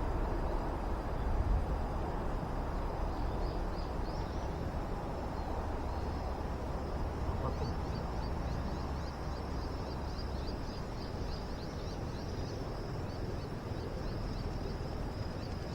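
Outdoor campsite ambience: a steady low rumble, with a faint high chirping that repeats a few times a second from about halfway in.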